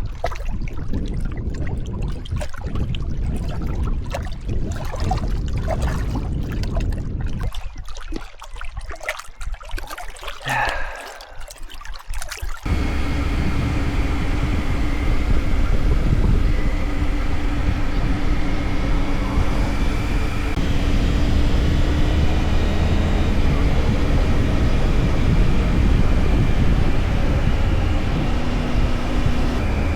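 Motorcycle under way: the engine running under rumbling wind and road noise. About twelve seconds in, the sound switches abruptly to a louder, steady engine drone with held tones.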